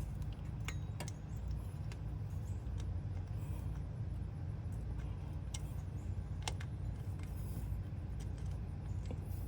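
Scattered sharp metallic clinks and taps of hand tools and engine parts being handled while fitting a pulley, over a steady low rumble.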